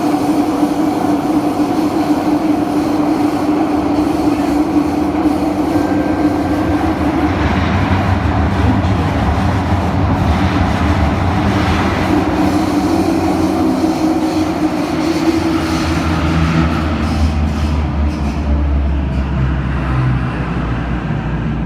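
Cabin noise of a KSF CT251 metro train running: continuous wheel-on-rail rumble with a steady motor hum that changes to lower, shifting tones about seven seconds in. The set's wheels have flat spots, which give the ride its heavy shaking.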